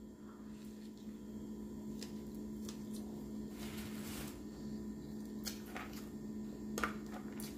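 Eating sounds: chewing a crispy fried chicken sandwich and French fries, with a few soft crunches and mouth smacks scattered through. A steady low hum runs underneath.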